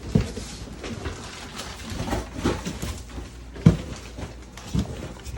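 Several dull thumps and rustling from handling and moving through heaped garbage, with faint bird sounds; the loudest thump comes near the middle.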